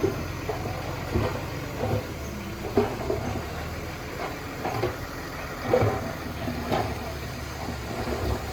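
Heavy earthmoving machine's diesel engine running steadily, with irregular short clanks and knocks every second or so.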